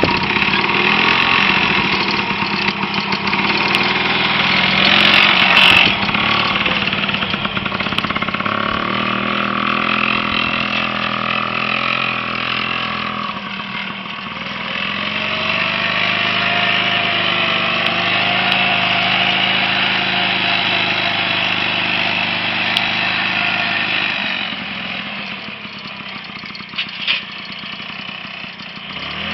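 Small two-stroke WSK 125 single-cylinder engine of a homemade tractor running, its pitch and level rising and falling, loudest about five seconds in and quieter for the last few seconds, with a couple of short knocks near the end.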